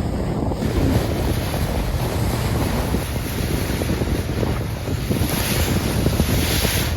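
Wind buffeting the microphone over the rush of water at a moving ship's bow. A louder hiss of rushing water rises about five seconds in and lasts nearly two seconds.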